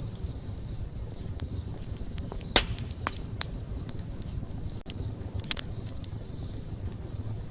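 Wood fire burning, with a low steady rumble under scattered sharp crackles and pops; the loudest pop comes about two and a half seconds in.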